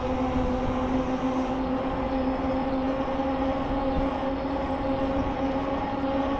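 A steady, even-pitched mechanical hum over a constant low rumble. Faint high tones sound above it and stop about a second and a half in.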